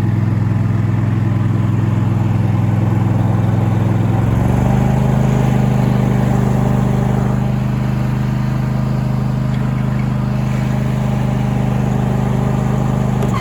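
Lawnmower engine running steadily, its note shifting slightly about four seconds in.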